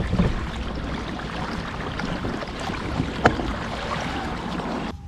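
Water rushing and splashing along a fishing kayak's hull under way, with wind buffeting the microphone and a few sharp knocks, the loudest about three seconds in; the noise drops off suddenly near the end.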